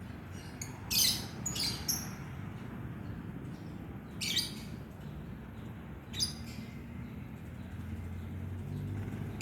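Lovebird giving short, harsh chirps, about five spread over the seconds, against a steady low background noise.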